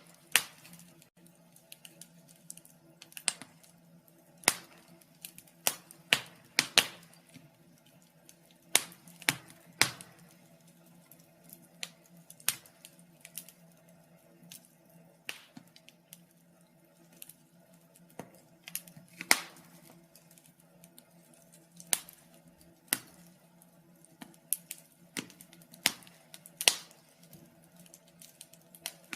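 Wood fire in a fireplace crackling, with irregular sharp pops and snaps at uneven intervals over a faint steady hum.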